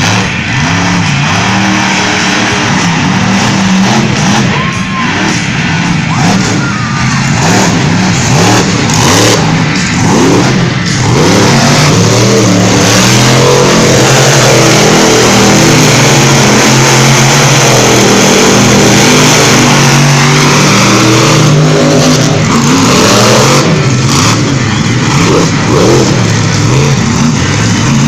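Monster truck engine revving hard, its pitch climbing and dropping again and again, loudest through the middle stretch.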